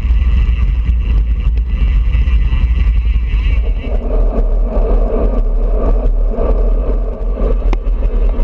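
Wind buffeting a GoPro microphone on a moving road bike: a loud, steady, deep rumble. A mid-pitched drone joins about four seconds in, and there is one sharp click near the end.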